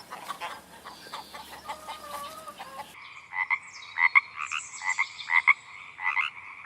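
Frogs croaking in repeated short, pulsing calls, starting abruptly about three seconds in after a stretch of faint mixed outdoor noise.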